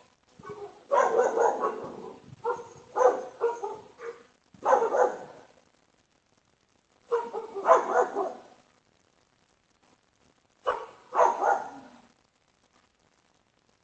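A dog barking in several bouts of short barks, with pauses of a second or two between them.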